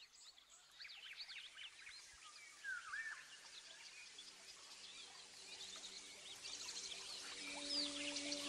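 Many small birds chirping and twittering in quick, overlapping calls, with a soft sustained musical drone fading in about halfway through and growing louder toward the end.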